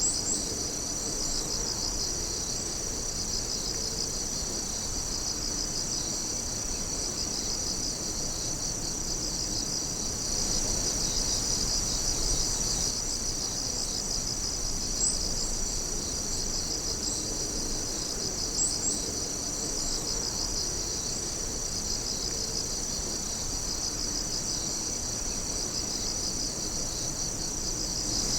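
A steady chorus of crickets and other night insects, many chirping and trilling at once in high, fast pulses.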